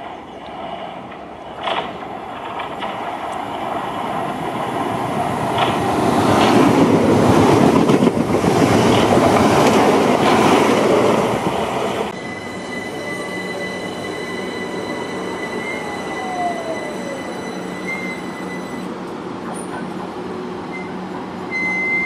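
A train passing close at speed, the rumble and rattle of its wheels on the rails building up to a peak for several seconds before cutting off. Then a London Overground electric train standing at the platform, its electrical equipment giving a steady hum and high whine, with one tone gliding down in pitch.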